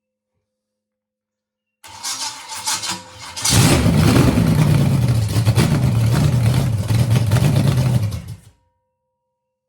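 Freshly built Chevy 350 small-block V8 being cranked by an old starter motor for about a second and a half, then catching and running loud with its speed wavering for about five seconds before shutting off abruptly. It is a first start on the new engine, with the ignition timing still being set.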